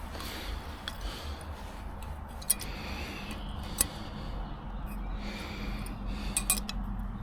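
A few sharp metallic clinks of tools or parts being handled over a low steady rumble, with a faint hum coming in partway through.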